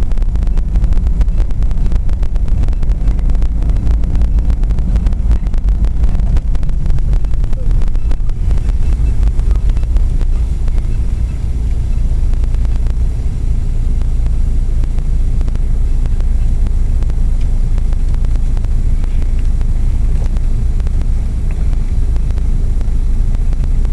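Wind buffeting the microphone over a steady low rumble, crackling hardest for the first eight seconds or so.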